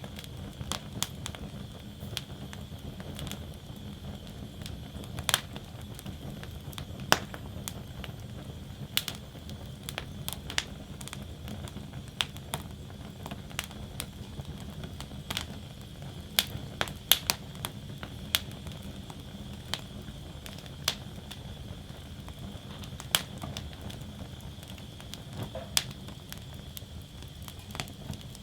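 Wood fire burning in a metal fire basket, crackling and popping irregularly over a steady low background noise.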